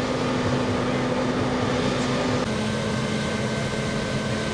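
Fire truck engine running steadily with a constant hum; the hum drops abruptly in pitch about halfway through.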